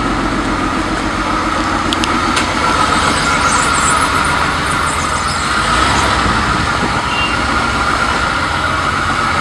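Car engine running steadily, a homemade sports car's engine.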